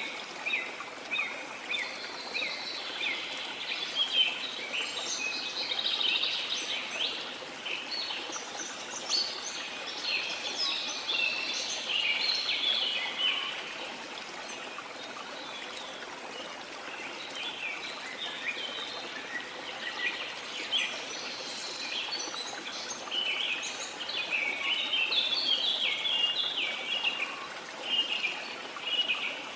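Many birds chirping and trilling in quick, high runs over the steady rush of a waterfall. The birdsong thins out around the middle and picks up again near the end.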